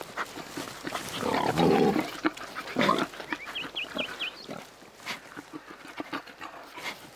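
Wild boar sows and piglets grunting and snuffling as they forage, loudest about a second and a half in. A short run of four high chirps comes a little after the middle.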